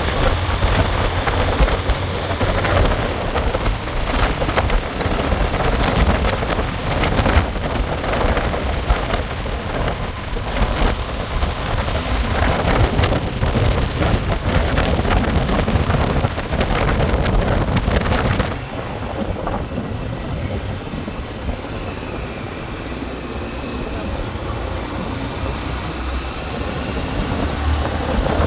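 Motorcycle engine running on the move, with wind rumbling on the microphone; the noise drops somewhat about two-thirds of the way through.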